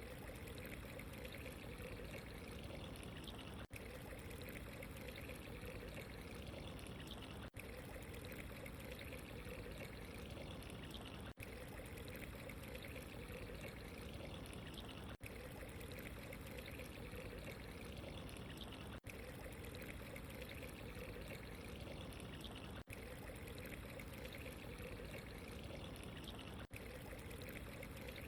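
Steady running water, pouring and trickling, with a very brief dip in sound about every four seconds, where a short recording repeats.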